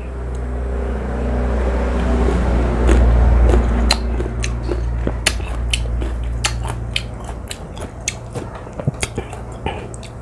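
Biting and chewing young, crunchy unripe water mango (mangga air) close to the microphone. A low rumble swells over the first few seconds, then crisp crunches come several a second from about four seconds in.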